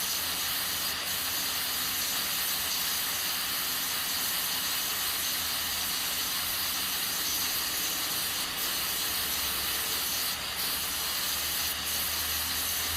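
Aluminium pressure cooker hissing steadily as steam escapes from its valve, with beans cooking under pressure.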